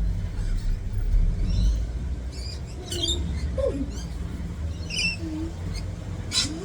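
Short, scattered bird chirps from small birds at the feeding spot, some of them high and quick, over a steady low rumble that is loudest in the first two seconds.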